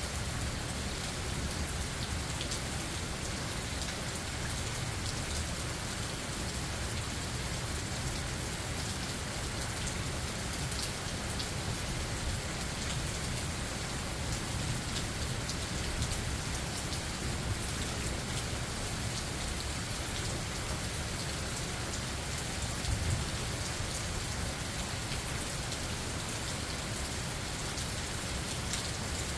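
Steady rain falling in a forest, a continuous hiss with scattered drop ticks and a low rumble underneath.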